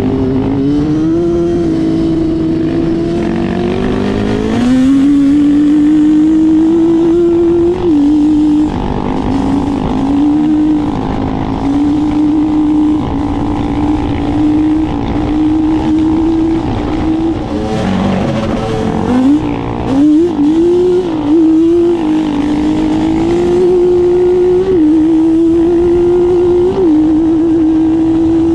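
Off-road vehicle engine running hard on a trail. Its pitch climbs and holds, then drops suddenly several times, about 8 seconds in and twice near the end, as the throttle is let off or the gears shift. In the middle the pitch dips and wavers as the throttle goes on and off.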